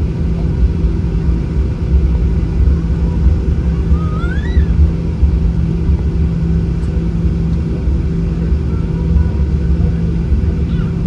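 Boeing 737-800 cabin noise from a window seat: the steady low rumble and hum of its CFM56 engines and the airframe.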